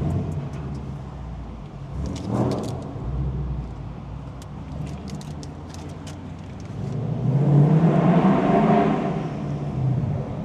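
Car engine running as a car drives slowly, with the engine sound swelling to its loudest between about seven and nine seconds in, then settling back.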